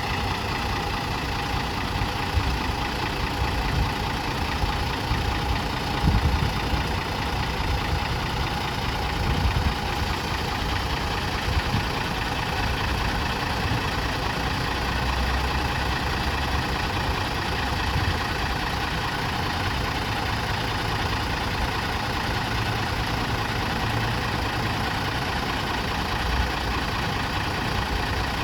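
Toei city bus R-T282's engine idling steadily, with a few louder low bumps between about six and twelve seconds in.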